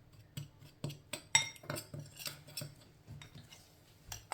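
Metal spoon clinking and tapping against a bowl in a string of light, irregular strikes, a few of them with a short ring, while seasoning is scooped and sprinkled.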